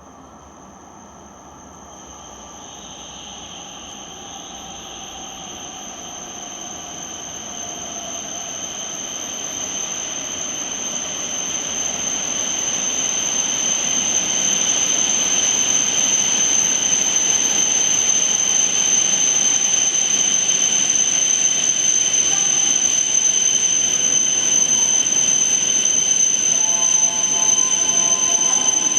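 Tohoku Shinkansen train approaching the station to stop, a steady high-pitched whine over rushing noise. It grows louder over about fifteen seconds, then stays loud, and lower tones join near the end.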